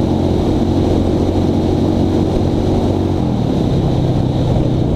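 Honda Shadow motorcycle's V-twin engine running at speed. A little over three seconds in, the engine note drops to a lower, steady pitch.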